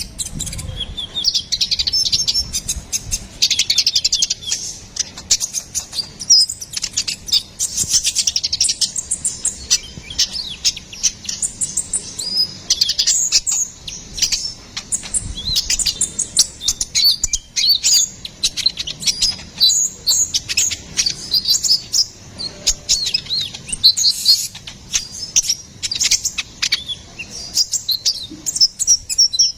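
Sunbird (konin / kolibri ninja) singing a fast, unbroken chatter of high chirps and trills, the kind of gacor song bird-keepers play to tutor or lure small songbirds.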